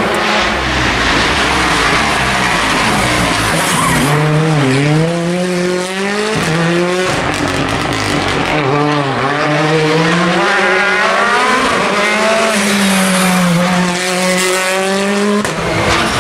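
Rally car engine being driven hard at full revs. Its note climbs and drops back again and again as it accelerates, brakes and shifts gear.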